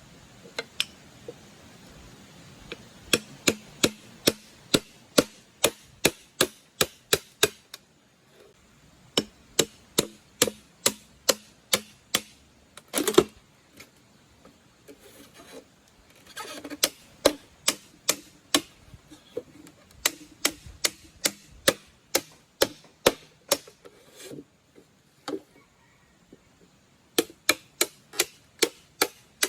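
Rapid, evenly spaced knocks or chopping strikes, about three a second, in runs of a few seconds with short pauses between; one louder, longer knock about thirteen seconds in.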